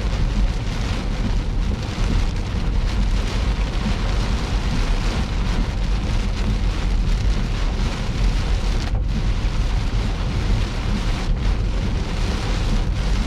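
Rain on a moving car, with steady low road and engine rumble under it.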